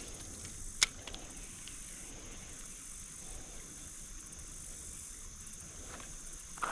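Insects trilling steadily in a high-pitched outdoor chorus, with one sharp click about a second in.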